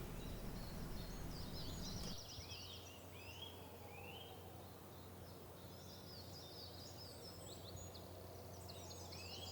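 Wild birds singing: repeated short rising calls and high trills, fairly faint. A low background noise under them stops suddenly about two seconds in.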